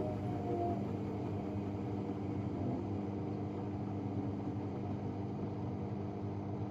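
AEG Protex Plus front-loading washing machine running in its final spin: a steady motor and drum hum with several held tones. The drum is a new unit fitted after the old one's bearings failed.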